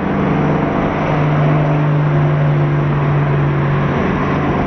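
Twin-turbocharged Chevrolet Camaro SS V8 running at a steady cruise: a steady engine drone that drops slightly in pitch within the first second.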